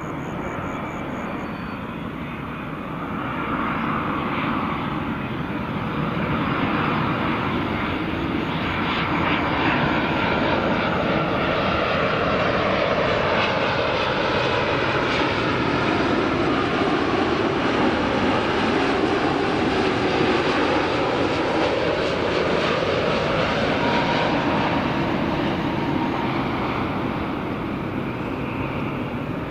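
Boeing 787-9 jetliner's turbofan engines on its landing, a steady loud jet roar that swells about three seconds in and eases off near the end, its pitch sliding as the airliner passes.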